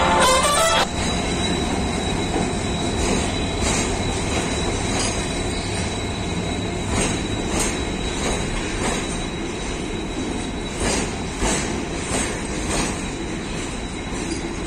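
Background music cuts off about a second in. Container wagons of a freight train then roll past, a steady rumble with irregular wheel clacks over rail joints and a thin, steady high wheel squeal.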